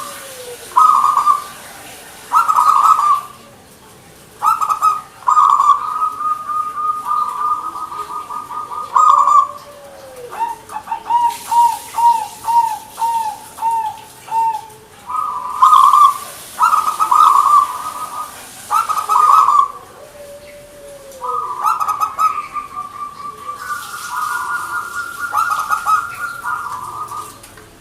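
Zebra dove (perkutut) cooing over and over in short, rolling phrases, with a run of quick, evenly spaced coo notes near the middle.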